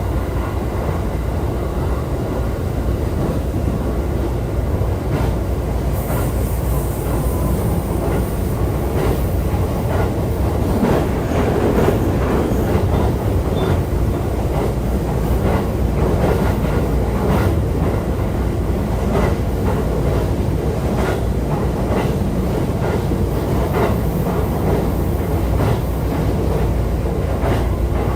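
JR East E531 series electric train running, heard from aboard: a steady low rumble with repeated wheel clicks over rail joints. A high hiss joins about six seconds in.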